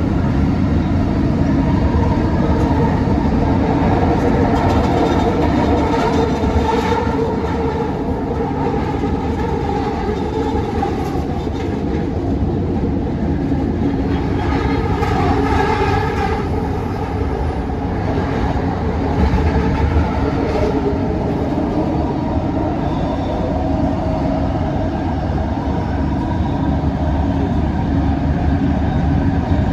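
Bombardier Innovia ART 200 light-rail train running: a steady rolling rumble with a constant hum and humming tones that rise and fall in pitch.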